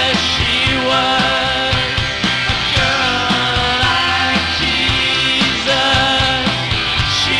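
Rock band playing live, an instrumental passage of electric guitars, bass and drums with a steady beat and no vocals.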